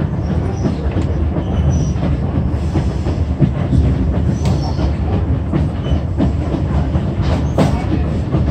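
Passenger train running along the track, heard from on board: a steady rumble of wheels on rails with scattered clicks and knocks.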